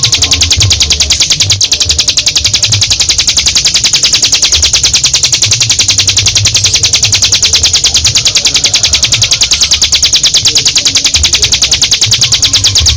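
Ciblek gunung (mountain prinia) singing one long, unbroken, very rapid high trill, the 'ngebren' song. An irregular low rumble runs underneath.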